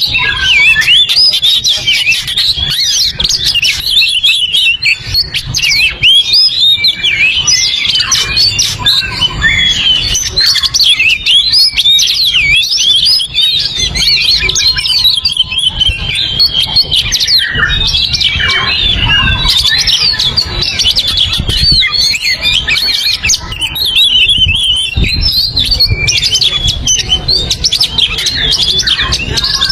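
Oriental magpie-robin (kacer) singing a loud, continuous run of rapid, varied chirps and warbles. This is the energetic 'gacor' song that is used as a master recording to stimulate other birds. A steady low rumble runs underneath.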